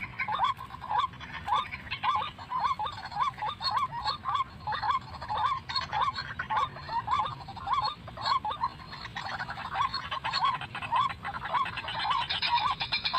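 White-breasted waterhen calling: a long, even series of short repeated calls, about two a second.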